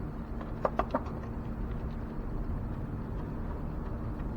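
A few light, sharp clicks about a second in, from bolts and a hand tool being handled while the intake manifold bolts are started by hand, over a steady low hum.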